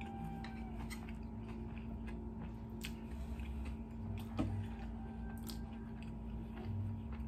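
A person chewing sushi close to the microphone, with soft wet mouth clicks and small squishes.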